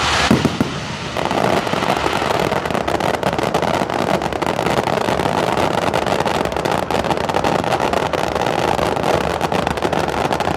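Fireworks display: a dense, continuous crackling of many small bursts, setting in about a second in.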